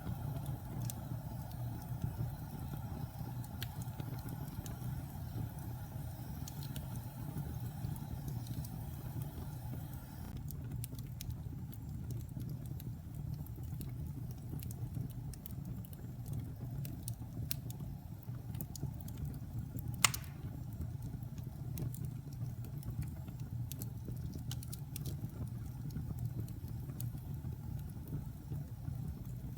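Fire in a fireplace crackling, with scattered small pops and one sharp, loud pop about two-thirds of the way through, over a steady low rumble.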